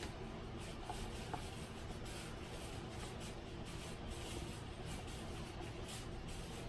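Faint scratching of a pen or marker writing on paper in short strokes, over a low steady room background.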